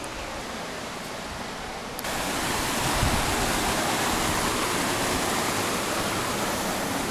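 Steady rushing noise of the Ouzoud waterfall, with no break or rhythm. It grows suddenly louder and brighter about two seconds in and holds there.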